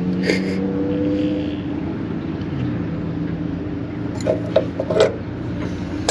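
An engine idling steadily, with a few short clinks near the start and about four to five seconds in.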